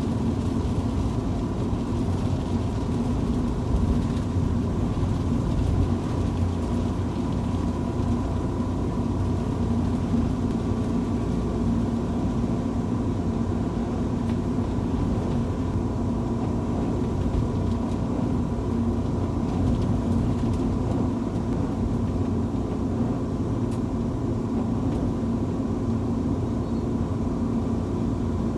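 Road vehicle driving on a highway in heavy rain and strong wind: a steady low rumble of engine and road noise with a faint steady whine.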